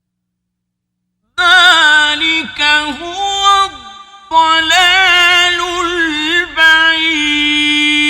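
Male reciter chanting Quran in the melodic mujawwad style: a single voice with long, ornamented melismas. It enters after about a second and a half of silence, breaks off briefly about four seconds in, and ends on a long held note.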